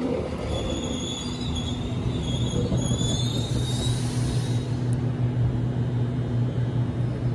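Electric suburban passenger train drawing up and stopping at a red signal, its wheels squealing in several high tones for the first four seconds or so. A steady low electrical hum from the train continues underneath.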